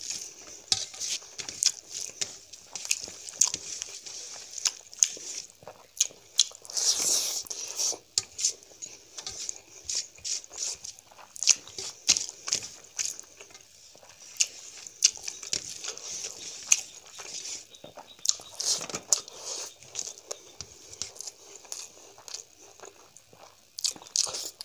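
Close-up eating sounds of a person eating rice and fish curry by hand: wet chewing and lip-smacking in quick irregular clicks, with fingers squishing rice against a steel plate. A longer hissy slurp or sniff comes about seven seconds in.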